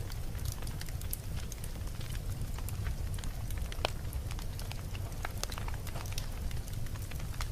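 Campfire burning: a steady low rumble of flames with frequent sharp crackles and pops from the burning wood, a few each second at irregular intervals.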